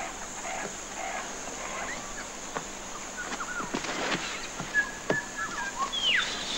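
Birds calling in bushland: a short call repeated about twice a second for the first second, then several scattered chirps and whistles. A few sharp snaps and clicks sound among them.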